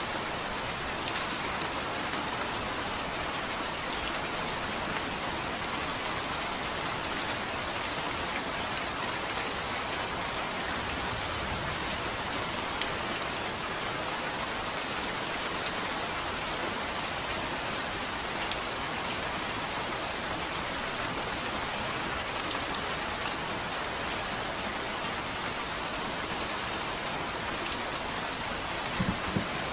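Steady rain falling on a surface, with individual drops ticking now and then over an even hiss.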